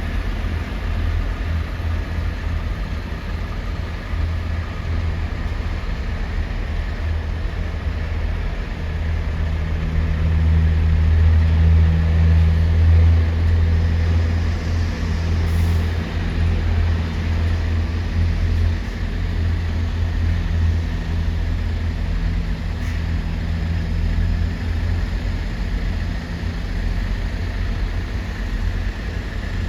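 Deep, steady engine rumble of heavy vehicles in a port, swelling louder from about ten to fourteen seconds in, with a faint steady hum over it.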